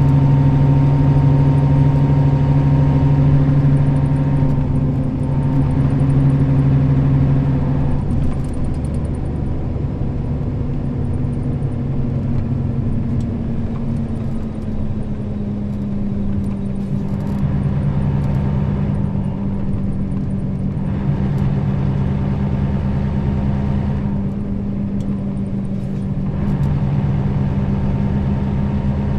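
Nissan Diesel KL-RA552RBN bus's diesel engine running under way, with a steady hum. About eight seconds in its pitch drops as the revs fall, then it holds steady at the lower pitch.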